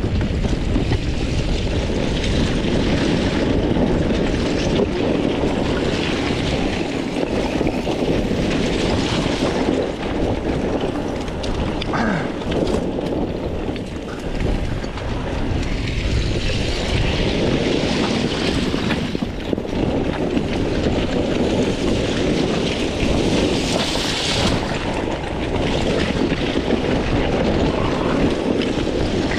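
A 300 cc two-stroke dirt bike engine running under changing throttle, its level swelling and dipping every few seconds, heard through an action-camera microphone with wind noise on it.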